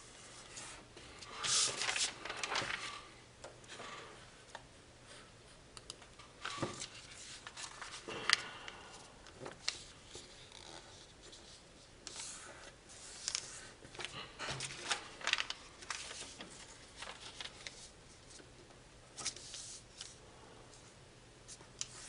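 A large sheet of foil being folded and creased by hand: irregular crinkling and rustling with sharp crackles, coming in bursts with quieter pauses between.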